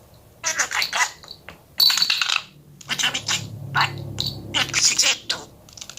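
Budgerigar chattering in rapid, clicky bursts of warble, with a low hum under it in the middle.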